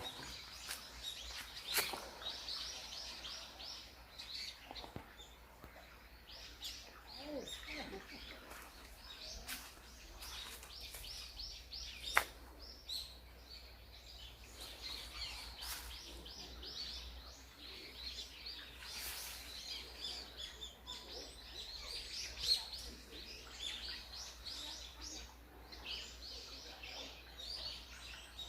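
Small birds chirping and calling, many short high chirps overlapping throughout, over a steady low rumble. There is a single sharp click a little before halfway.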